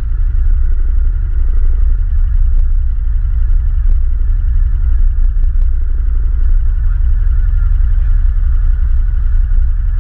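ATV engine running steadily while riding, with a heavy low rumble.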